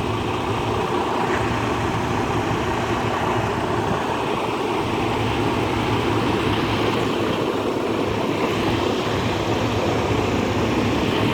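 Semi truck's diesel engine running steadily at low revs, heard from inside the cab.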